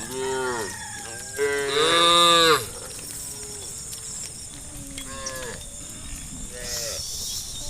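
Cows mooing, about four separate calls. The loudest and longest comes about one and a half seconds in and lasts about a second, with a shorter moo right at the start and two fainter ones in the second half.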